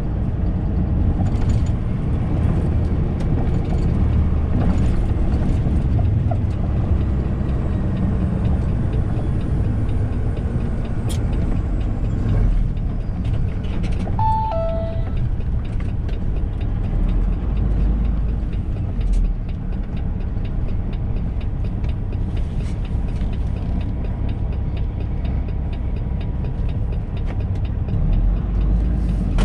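Semi-truck heard from inside the cab while driving: a steady low engine and road rumble. About halfway through, a short falling two-note electronic chime sounds.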